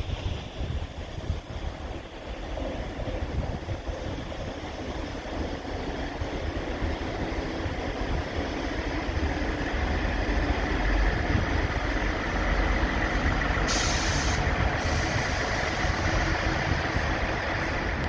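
Diesel train running through the station, its low rumble growing steadily louder, with a short sharp hiss of air about three-quarters of the way through.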